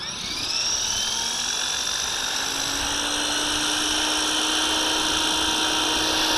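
Walkera V450D01 RC helicopter's electric motor and rotor spooling up: a high whine that climbs quickly in pitch at the start, then keeps rising slowly and steadily as the rotor comes up to speed.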